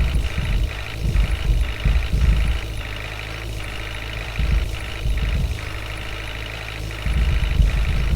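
Heavy diesel engine running, its low rumble swelling and easing unevenly, louder near the end.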